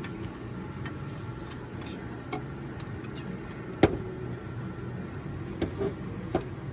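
Scattered clicks and knocks of tools and parts being handled while fitting a water pump to an engine, the sharpest knock about four seconds in, over a steady low background hum.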